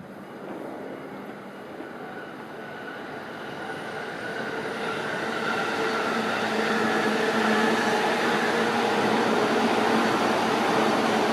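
JR Freight EF210 electric locomotive hauling a freight train: the rumble of its wheels on the rails and the steady hum of its electrics grow louder over the first six or seven seconds as it approaches, then hold steady and loud as it passes.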